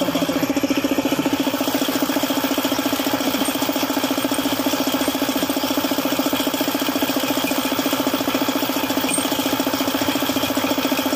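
Suzuki F6A three-cylinder engine running steadily, with a fast, even pulsing beat.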